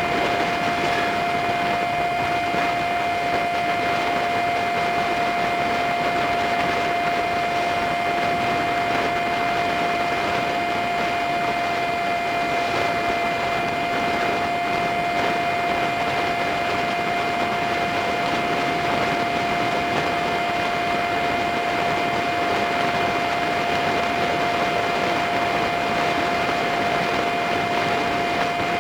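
Riding noise picked up by a dashcam on a Honda Super Cub 50: a steady rush of wind and engine with a constant high whine that does not change in pitch.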